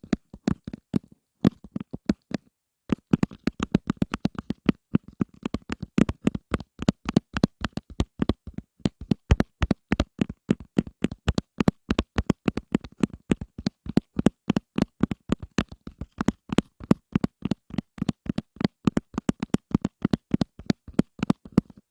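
Fast ASMR tapping, several quick taps a second with a short break about two and a half seconds in.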